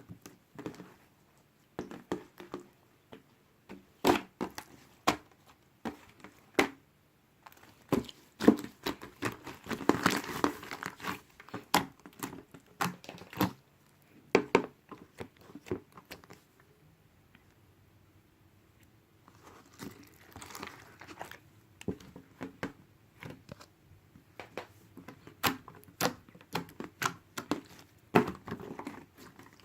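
Irregular sharp clicks and taps with bouts of crinkling rustle, as of small objects or packaging being handled. The rustling is densest about ten seconds in and again around twenty, and there is a lull in between.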